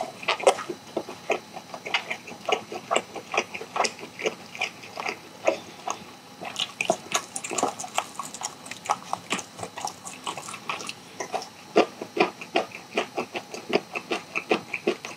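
A person chewing a mouthful of sauce-coated charcoal-grilled chicken: wet mouth clicks and smacks several times a second, busiest in the middle stretch.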